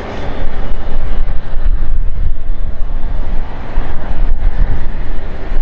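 Loud, deep rumble of an Airbus A330-200's Rolls-Royce Trent 700 jet engines as the airliner passes close while landing. It swells sharply about half a second in and stays loud.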